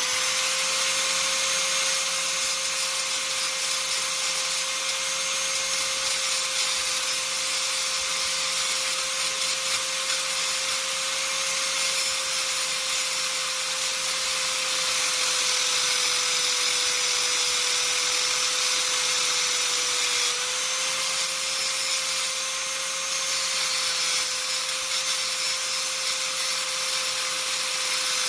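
An electric power tool spins up and runs at a steady speed with a rubbing, grinding noise on top, dipping briefly near the end.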